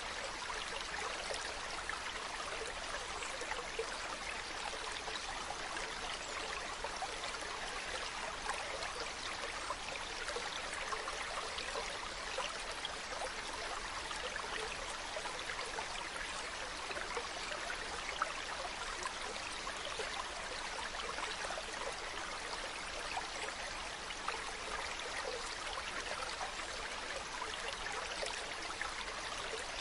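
Mountain stream running steadily over rocks, a continuous rush of water with small splashes and trickles.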